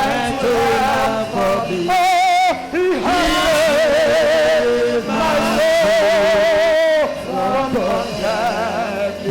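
A man singing sustained, wavering notes with strong vibrato over music, in the style of gospel praise worship.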